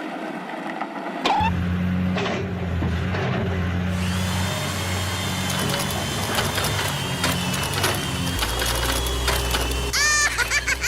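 Steady hum of a small electric motor, starting about a second in and shifting abruptly in pitch a few times, with a thin high whine over it for a while. Near the end, short repeated rising calls begin.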